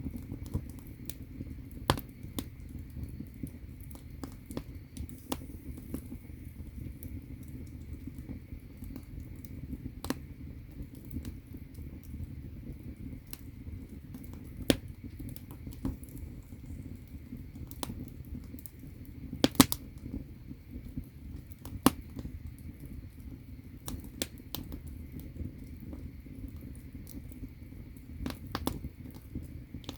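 Firewood burning in a Korean agungi firebox: a steady low rumble of the fire with constant small crackles and a few sharper pops, one a quick double pop about two-thirds of the way through.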